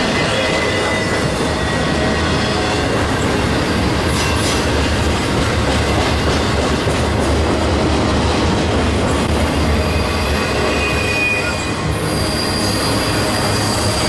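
Freight train cars rolling past on steel rails, a steady heavy rumble with thin high wheel-flange squeals that come and go. A steady high squeal sets in near the end.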